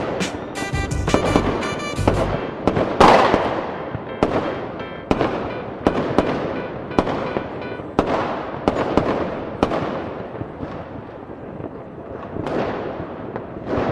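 Fireworks going off in quick succession: a string of sharp bangs, each trailing off in a fading tail, the loudest about three seconds in. Music plays under the first couple of seconds.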